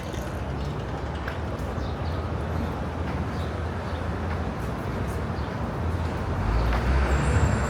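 City street traffic: a steady rumble of passing motor vehicles, growing louder near the end.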